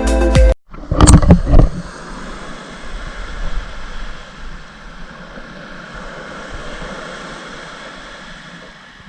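Background music cuts off abruptly about half a second in. A few loud buffets follow, then a steady rushing noise that slowly fades.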